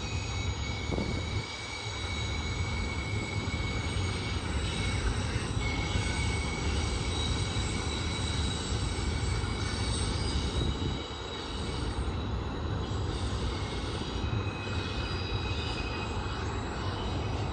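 Long intermodal freight train's cars rolling steadily past, a continuous low rumble and rattle with a faint high steady squeal above it.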